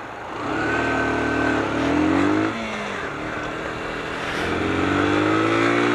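Sinnis RS125's Yamaha YBR125 single-cylinder four-stroke engine accelerating away, the revs climbing, falling at an upshift about two and a half seconds in, then climbing again in the next gear.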